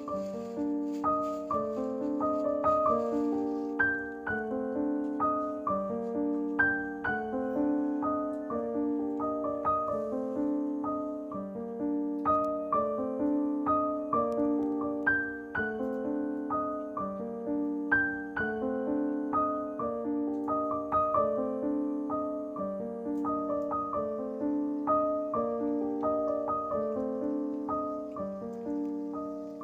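Background piano music: a gentle repeating pattern of notes at an even pace.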